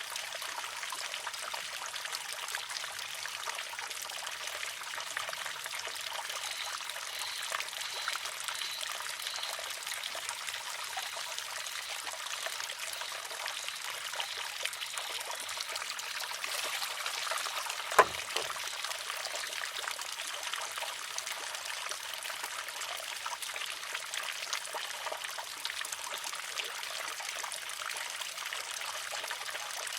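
Water trickling steadily through a wooden shishi-odoshi, with one sharp clack about two-thirds of the way through as its pivoting arm fills, tips and strikes the stone.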